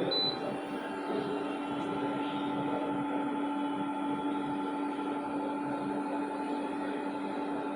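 Room air conditioner running with a steady hum and airflow noise, and a short high beep right at the start.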